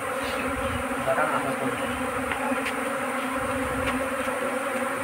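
A mass of honeybees buzzing in a steady, continuous drone around an opened hive.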